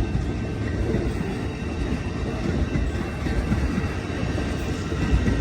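Amtrak Coast Starlight passenger cars rolling past on the rails: a steady rumble of steel wheels on track.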